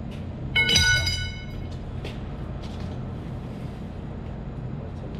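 Steady low mechanical hum of running HVAC plant-room machinery. About half a second in, a brief high-pitched squeal lasts about a second.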